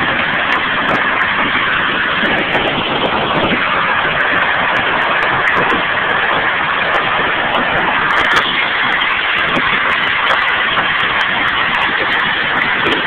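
Hailstorm: hailstones falling hard in a dense, steady clatter, with many sharp single impacts standing out throughout.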